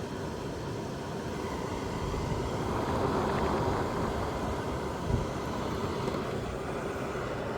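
Midea dehumidifier running: its fan blowing air with a steady hum and a faint steady tone, swelling slightly partway through.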